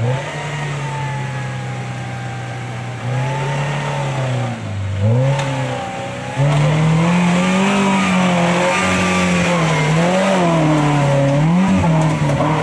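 Modified Maruti Gypsy off-roader's engine revving under load on a steep mud climb, the revs rising and falling again and again. It gets louder about six seconds in.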